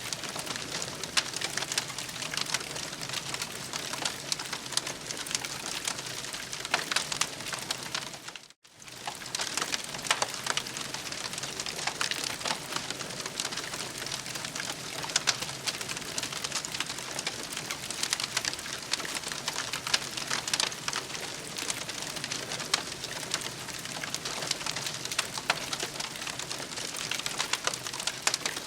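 Campfire crackling steadily, with many small pops and snaps over a soft hiss. The sound cuts out briefly about eight seconds in, then resumes.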